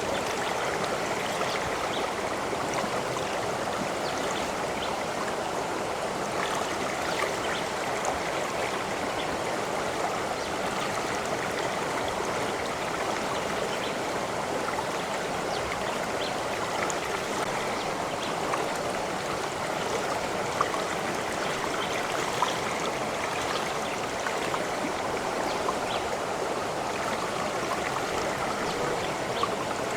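A stream of water running and trickling steadily over rocks, with small splashes and drips here and there.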